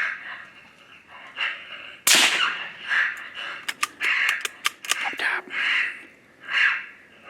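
Raccoon call blown in short, repeated squalls, with a sharp rifle shot about two seconds in and another right at the end. A run of quick sharp clicks falls in the middle.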